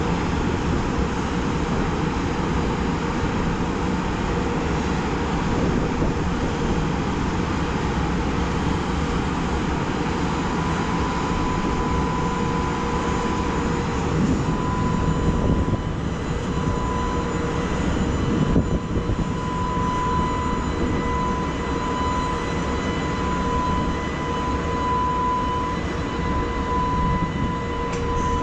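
EH500 electric freight locomotive slowly pulling away with its train of flat wagons: a steady roar with a steady high whine that grows stronger about halfway through.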